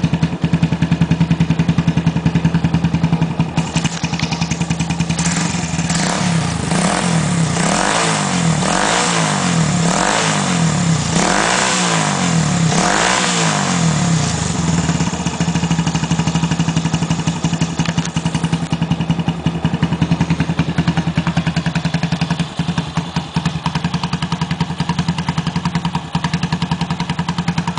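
Bashan 150's engine exhaling through a custom muffler: idling steadily, then revved up and let fall back about half a dozen times in a row, then settling back to idle.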